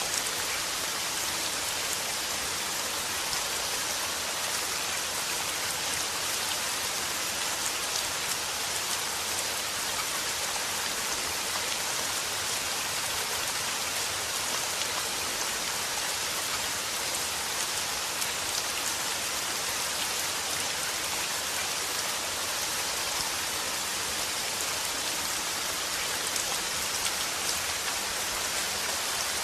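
Steady rain falling and pattering on a surface, an even hiss with fine droplet ticks and no let-up.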